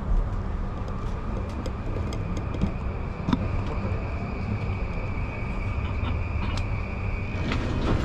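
Interior of a commuter train car at a station stop: a steady low rumble, with a thin high whine held from about two seconds in until near the end, and a few light clicks and rattles.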